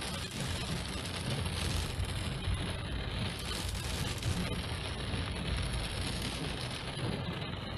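Heavy rain falling on a moving car, over a steady low rumble from the car and the wet road.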